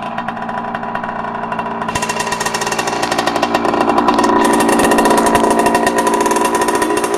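1984 Yamaha YZ80's single-cylinder two-stroke dirt-bike engine running, still warming after a cold start. It revs up about two seconds in and holds a higher, louder rev, easing back slightly near the end.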